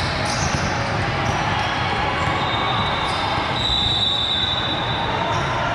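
Steady din of a large indoor volleyball tournament hall: background crowd chatter and volleyball thuds on the courts. A thin, high, steady tone comes in a couple of seconds in and lasts about two and a half seconds.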